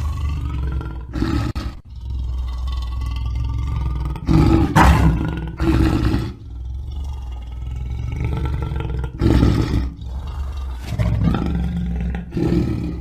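Lion growling, with a continuous deep rumble broken by about six short, louder roars.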